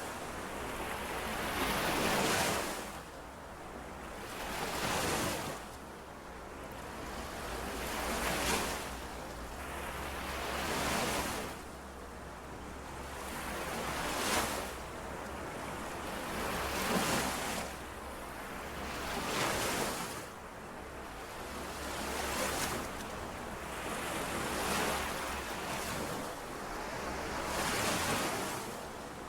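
Small lake waves washing in and out on the shore. Each wave is a hiss that swells and fades, one every two to three seconds.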